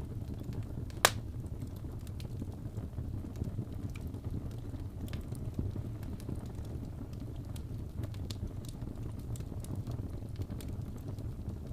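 Fire burning in a fireplace: a steady low rumble with scattered crackles and one loud sharp pop about a second in.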